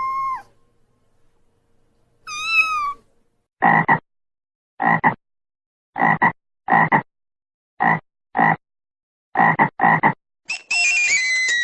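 Frog croaking ringtone sound effect: about a dozen short croaks, several in quick pairs. It follows the tail of a cat's meow and one more meow. Near the end, a tinkling ringtone with a falling run of notes begins.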